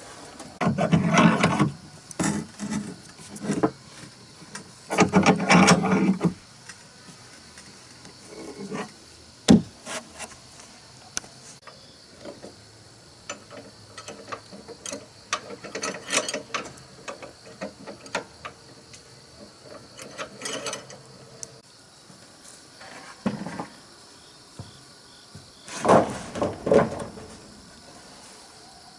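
Wood being worked by hand: scattered knocks and clicks, with three louder scraping spells lasting a second or so, two near the start and one near the end.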